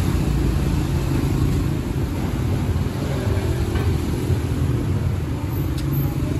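Steady low rumble of a motor vehicle engine running close by. A light clink is heard near the end.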